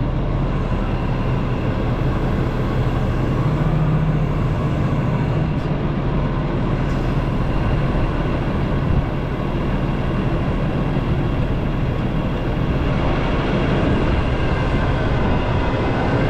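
Excavator's diesel engine running steadily under work, with a brief knock about nine seconds in.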